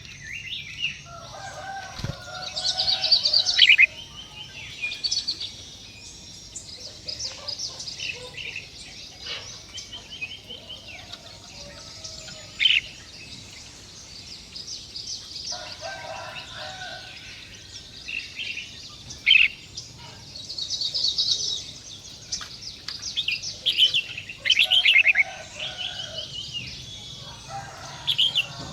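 Small birds chirping and calling in quick bursts of high notes, with lower calls now and then, and a single sharp click about two seconds in.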